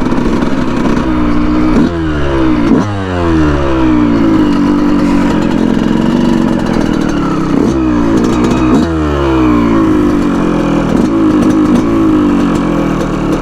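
A 2019 Yamaha YZ125's 125 cc two-stroke single-cylinder engine being ridden hard. Its pitch swings up and down several times with throttle and gear changes, with sharp changes about two, three, eight and nine seconds in.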